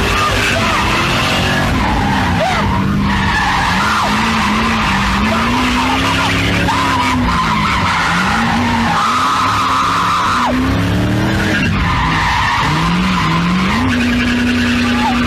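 Drift car engine revving up and down over and over while the tyres squeal in long stretches that come and go, as the car slides through a drift.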